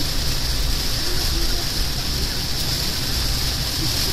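Heavy rain hitting a car's roof and windshield, heard from inside the cabin, a steady hiss over the low rumble of the car driving.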